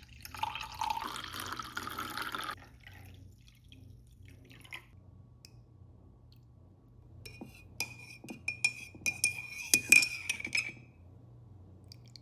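Making a cup of coffee: liquid pours into a mug for about two seconds, then a spoon clinks repeatedly against the ceramic mug while stirring, with a ringing tone on the strikes.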